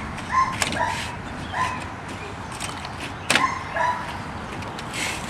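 A dog yipping in short, high, irregular yelps, with a few sharp clicks in between.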